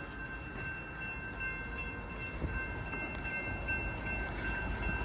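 Union Pacific limestone train's diesel locomotives approaching, with a low rumble that slowly grows louder. A few steady high tones ring throughout.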